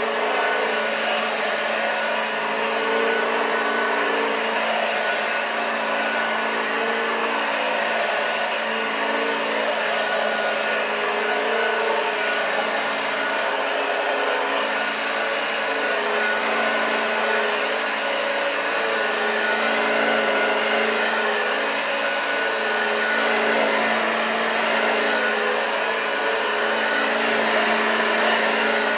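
1986 Hoover Junior U1206 upright vacuum cleaner running on carpet, its motor humming steadily with the beater-bar agitator turning. The level and pitch swell slightly. The motor is freshly serviced, with greased bearings, new brushes and a new belt.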